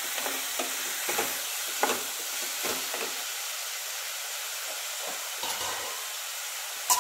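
Chopped onion and tomato masala with garlic, ginger and green chilli sizzling in oil, with a wooden spatula scraping and tapping against the pan as it is stirred now and then, and a sharp knock just before the end.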